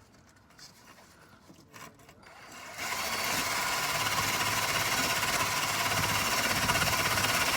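A power tool with a small wire wheel starts up about three seconds in and runs steadily, scrubbing surface rust off the car's steel underbody.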